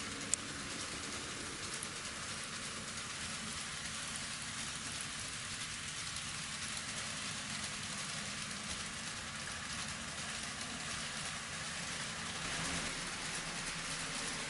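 N scale model train running on the track: a steady rolling hiss of small wheels on rail over a faint motor hum. A single sharp click sounds about a third of a second in, and the running gets slightly louder near the end.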